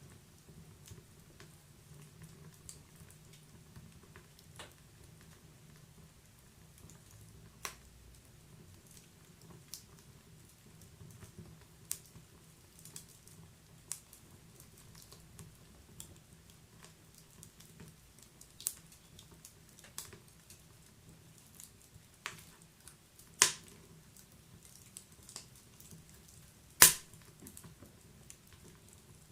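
Wood fire burning in a fireplace, crackling with scattered sharp pops at irregular intervals over a faint steady low hum. The two loudest pops come near the end.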